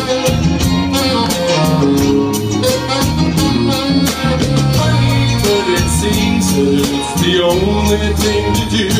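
Ukulele band playing a soft-rock song: steady strummed chords and a bass line under a gliding melody line, with no words sung for most of the passage.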